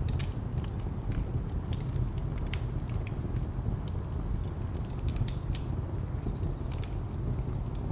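Wood fire crackling, with irregular sharp pops and snaps, over a steady low rumble of distant traffic.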